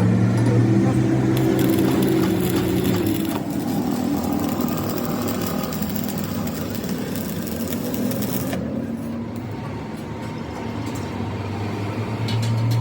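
An engine running steadily, its pitch shifting a little, with mechanical clatter over it.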